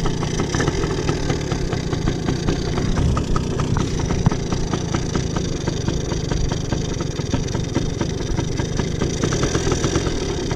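Small single-cylinder pit bike engine running steadily at a fairly even speed, with no clear revving.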